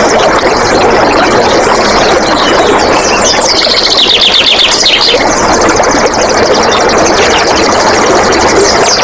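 Water flowing and splashing steadily, with wild birds calling over it in quick runs of falling notes, twice.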